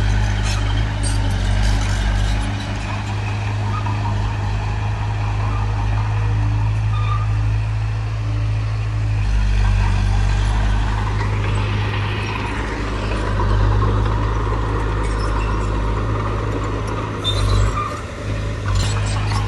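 Heavy diesel earthmoving machinery running steadily under a deep engine drone, its note shifting a few times, with scattered short metallic clicks and clanks.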